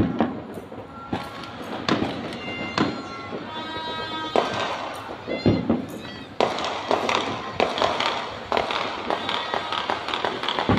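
Fireworks and firecrackers going off across the city, with repeated sharp bangs that grow denser and crackle more from about six and a half seconds in, over voices and long held pitched tones.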